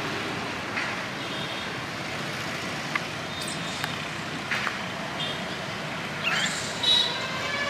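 A steady rumbling outdoor din, of the kind heard near road traffic, broken by half a dozen short sharp knocks, the loudest near the end.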